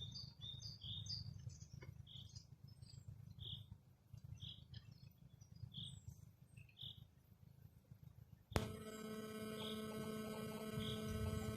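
A small songbird giving short, high single chirps about once a second over a faint, fluctuating low rumble. About eight and a half seconds in, a steady hum with several even tones starts abruptly, with the chirps continuing over it.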